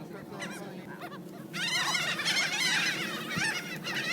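A flock of seagulls calling: a few scattered squawks at first, then about a second and a half in, many overlapping squawks at once, louder.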